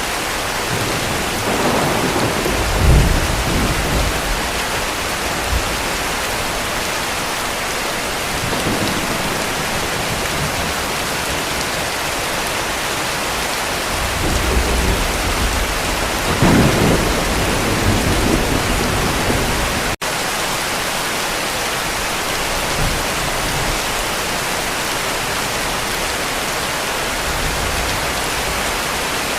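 Steady heavy rain with low rolls of distant thunder, one about two seconds in and a longer one in the middle. There is a split-second dropout about two-thirds of the way through.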